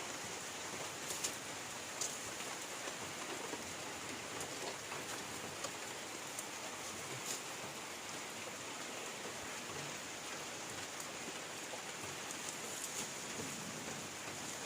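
Heavy rain falling steadily, with now and then a sharper drop striking close by.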